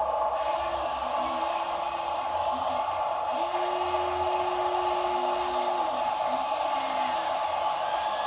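Small electric motor and gearbox of an RC toy dump truck running, a steady whirring drone.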